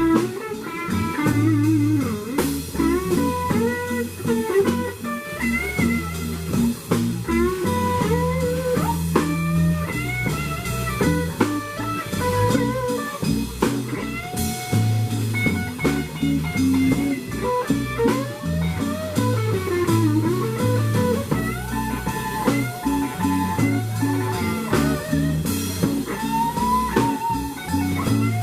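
Blues band playing an instrumental break: an electric guitar solo full of bent notes over a walking low line and drums.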